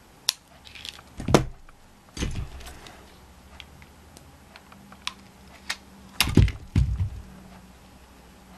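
Irregular clicks, taps and a few heavier knocks of small craft items and tools being handled on a work table while a bead is glued on, loudest in a cluster of knocks about six to seven seconds in.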